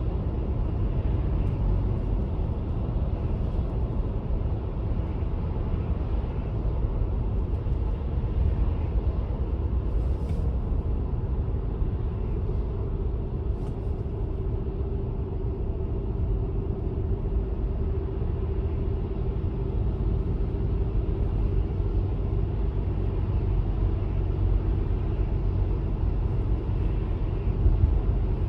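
A car driving along a road: a steady low rumble of engine and tyre noise, with a faint hum that grows a little stronger from about halfway through.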